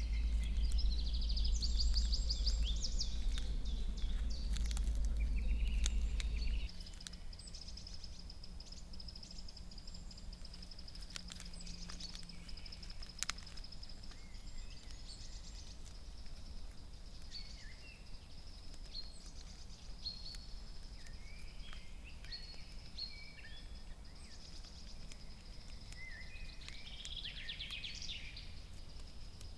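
Songbirds singing and calling in spring woodland. A low rumble runs underneath for the first six seconds or so and stops abruptly, after which a faint steady high tone runs on under the birdsong.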